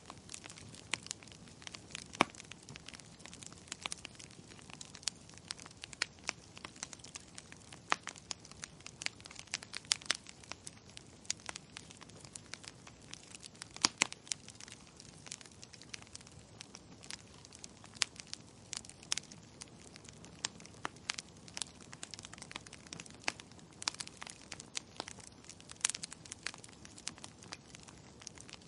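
Wood fire crackling in a fireplace, with irregular sharp pops and snaps, a few of them louder than the rest, over a soft steady hiss.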